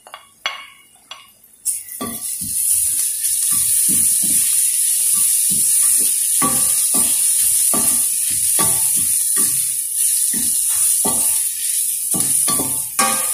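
Garlic and sliced onion frying in hot oil in a stainless steel pan, stirred with a wooden spatula. After a few light taps, the sizzle rises sharply about two seconds in and holds steady, with the spatula scraping through the pan about twice a second.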